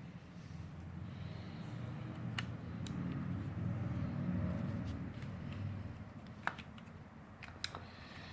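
Vintage Nikota desk fan running: a steady electric motor hum with the rush of air from the blades, growing louder toward the middle and then easing off, with a few sharp clicks in the second half.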